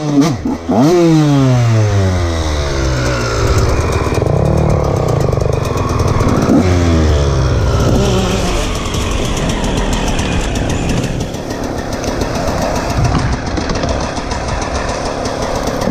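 KTM 125 SX two-stroke motocross engine under way, revving up and down as the throttle is worked. Its pitch shoots up about half a second in and falls away over the next couple of seconds, then keeps rising and falling.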